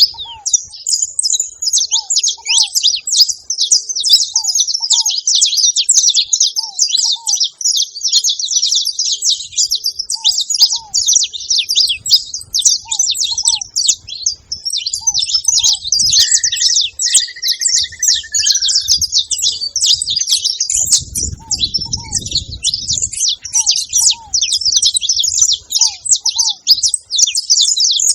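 Saffron finches chattering in a continuous dense stream of high chirps, as at a feeding spot. Another bird's lower paired note repeats every second or two in the background, and a brief low rumble comes about three quarters of the way through.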